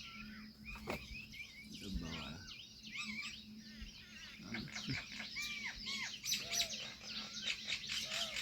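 Many small birds chirping and calling at once: a dense chorus of short, high, overlapping chirps that grows busier about halfway through.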